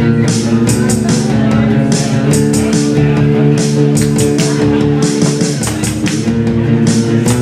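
Live post-punk rock instrumental passage: bass guitar holding low notes over a steady drum beat, with no singing.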